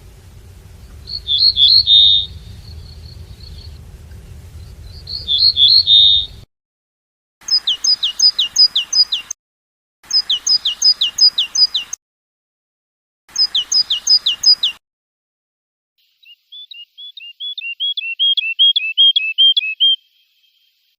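European goldfinch song. It starts with two short twittering bursts, then three runs of quick, repeated downward-sweeping notes separated by silent gaps, and ends with a fast trill that cuts off suddenly.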